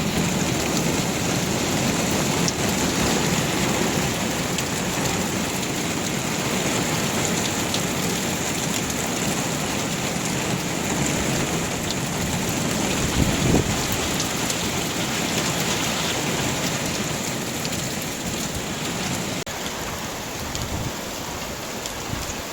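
Heavy rain pouring down steadily in a night thunderstorm, with a brief low rumble of thunder about halfway through.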